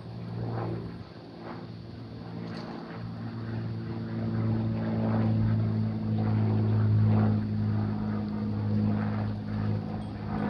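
Propeller airplane flying over with a steady low drone that grows louder to a peak about seven seconds in, then eases slightly.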